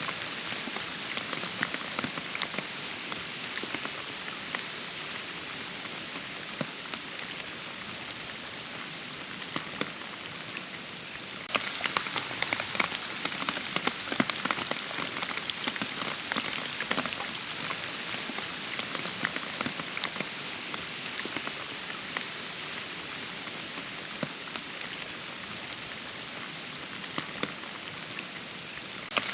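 Steady rain falling, with many separate drops pattering. It gets suddenly louder about eleven seconds in, then slowly eases off.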